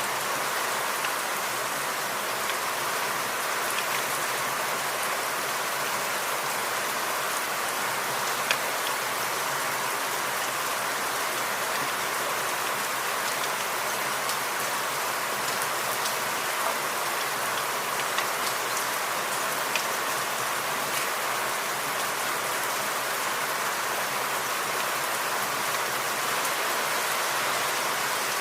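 Steady rain falling, an even hiss with a few louder single drops landing close by.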